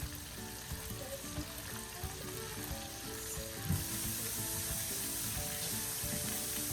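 Calamari pieces frying in hot oil, with a steady sizzle. There is a knock about halfway through, after which the sizzle becomes clearly louder.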